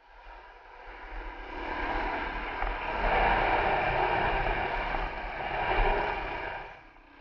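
Dual-sport dirt bike under way, its engine mixed with heavy wind rush buffeting a helmet-mounted camera. The sound fades in, builds over the first couple of seconds, and dips briefly near the end.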